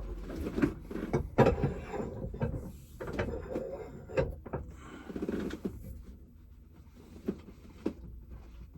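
A metal former being pushed down through a tape-wrapped silver coin held in a coin-ring barrel: irregular knocks, clicks and scraping of metal tools, the sharpest knocks about a second and a half in. It is quieter toward the end.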